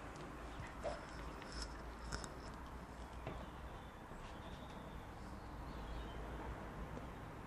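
Quiet room tone: a steady low hum with a few faint ticks and brief high chirps.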